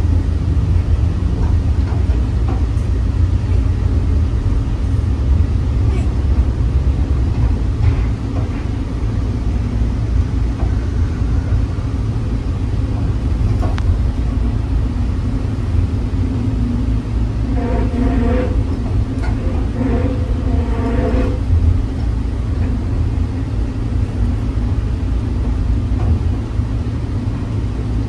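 Toronto Pearson Terminal Link people-mover train running along its elevated guideway, heard from inside the car: a steady low rumble.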